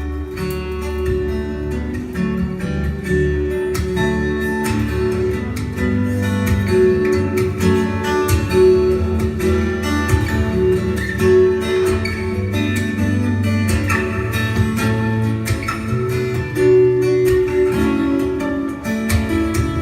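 Acoustic guitar playing a melodic instrumental piece, plucked melody notes over sustained bass notes.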